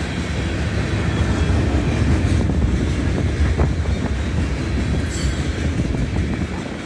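Freight train cars rolling past: a steady low rumble of steel wheels on rail with scattered clicks and knocks.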